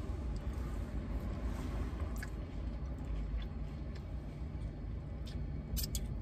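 Quiet chewing with a few faint mouth clicks, over a steady low rumble inside a car.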